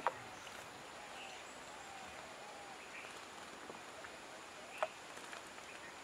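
Faint outdoor background with a few soft, distant bird chirps, and one sharp click a little under five seconds in.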